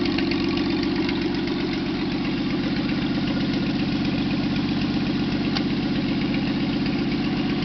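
Studebaker 185 cubic-inch flathead six-cylinder engine idling steadily on a test stand.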